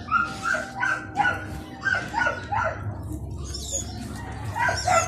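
A series of short animal calls, each falling in pitch, coming about two a second, with higher chirps mixed in near the end.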